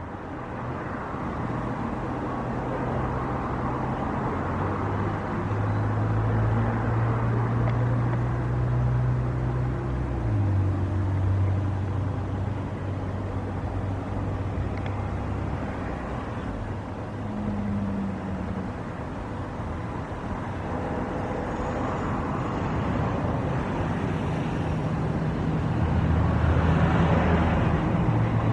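Jet airliner engines running with a steady rushing roar and low droning tones that shift in pitch, growing a little louder near the end.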